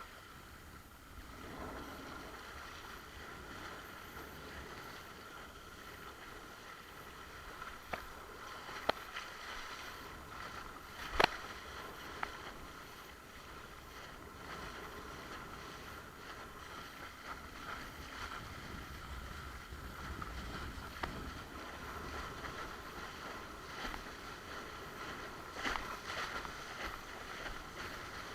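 Water rushing and splashing past a windsurf board under way, with wind on the microphone. A few sharp knocks or slaps come through, the loudest about eleven seconds in.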